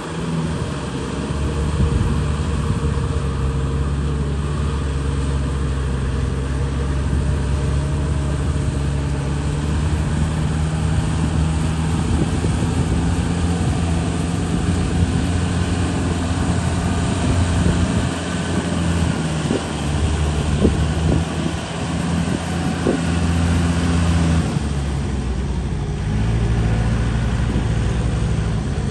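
Tractor engine running steadily while working in deep mud, with its note shifting near the end.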